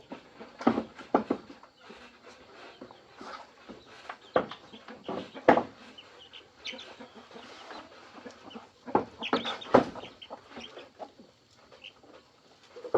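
Chickens clucking: short, sharp calls at irregular intervals, coming in small clusters, with the loudest bunch about nine to ten seconds in.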